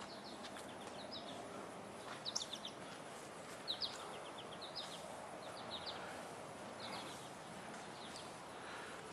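Faint outdoor ambience with a small bird repeatedly giving short runs of quick, high chirps, a run every second or so.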